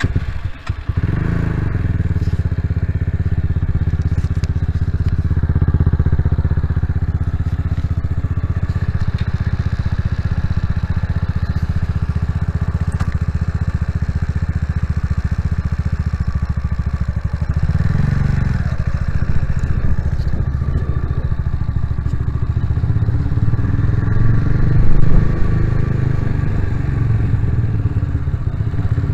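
Vitacci GTX 250 EFI motorcycle engine running as the bike rides through a parking garage, revving up about a second in and again about eighteen seconds in, with its loudest moment near the end.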